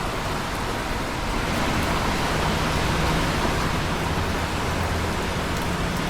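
Steady rain falling in a dense, even hiss, with a low rumble underneath that swells slightly about a second and a half in.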